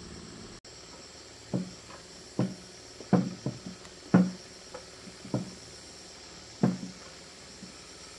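Irregular sharp knocks, about eight over several seconds, like hard objects striking one another.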